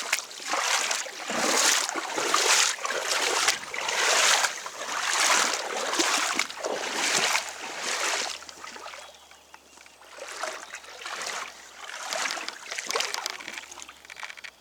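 Someone wading through shallow floodwater, a slosh of water with each stride about once a second, the strokes growing fainter after about eight seconds.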